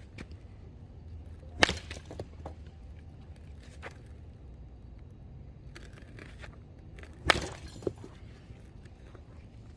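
Baseball bat hitting pitched balls: two sharp cracks about six seconds apart, with a lighter knock just after the second.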